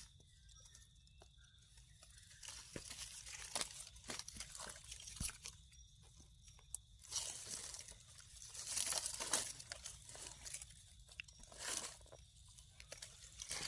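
Irregular crunching and scraping of dry soil and leaf litter, as ground is dug and cleared by hand to get at termite mushrooms. It is loudest in the middle stretch.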